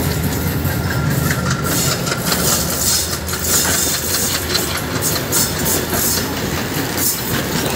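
Passenger train running along the track: a steady rumble and rush of wheels on rails, broken by irregular clacks over the rail joints.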